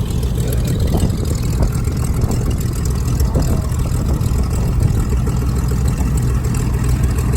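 Steady drone of a light aircraft's piston engine and propeller, heard from inside the cockpit, with rushing noise over it.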